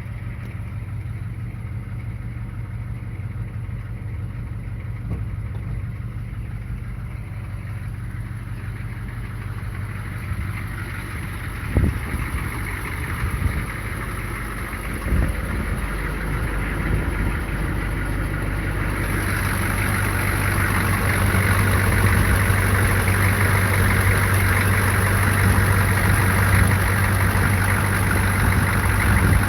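The 6.2 Detroit Diesel V8 of a 1990 Chevrolet K5 Blazer idling steadily after a cold start. There are two sharp knocks about twelve and fifteen seconds in. The engine gets louder and brighter from about two-thirds of the way through.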